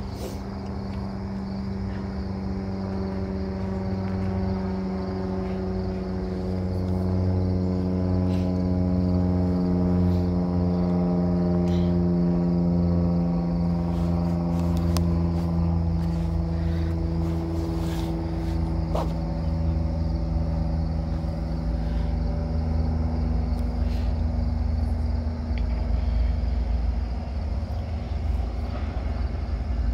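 Diesel freight locomotives approaching at the head of a long double-stack train. The engines drone steadily over a low rumble, growing louder over the first ten seconds or so, while the engine note drifts slowly lower.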